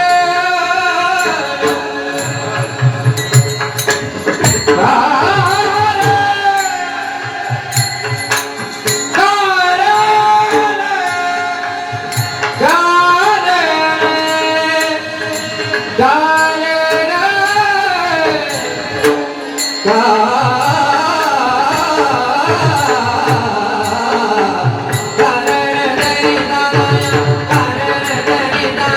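Devotional singing with long, bending, held notes, accompanied by a pakhawaj barrel drum whose deep strokes come in short runs, and sharp percussive clicks throughout.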